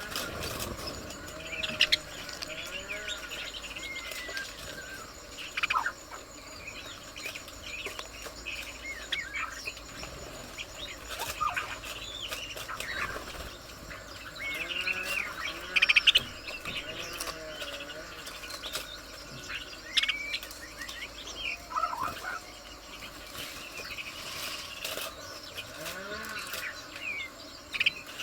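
Several birds chirping and calling, a steady mix of short twittering and whistled notes, with a few louder sharp calls about 2, 6, 16 and 20 seconds in.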